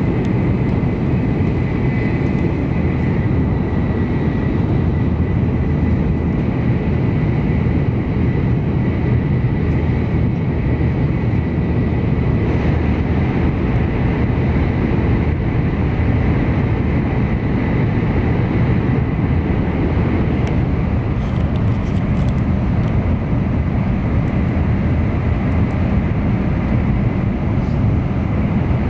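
N700-series Shinkansen heard from inside the passenger car while running at speed: a steady low rumble, with a faint high whine in the first few seconds.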